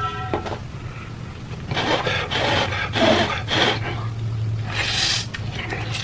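Noodles being slurped and eaten up close, a run of short noisy slurps about two seconds in and another about five seconds in.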